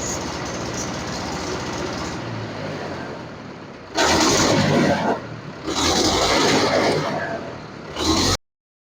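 Tractor diesel engine running steadily, then three loud bursts of engine noise from about four seconds in, the longest over a second and a half, before the sound cuts off abruptly.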